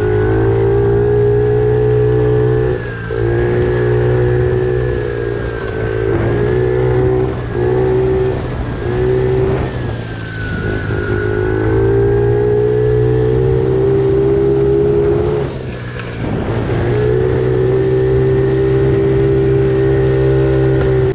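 Pit bike's small single-cylinder engine running at a steady throttle on a trail ride, with the throttle briefly let off about three seconds in, several times in the middle, and once more near the end.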